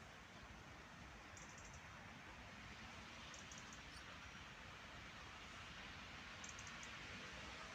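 Near silence: a faint steady outdoor hiss with a low rumble, broken about three times by a brief cluster of quick, high-pitched ticks.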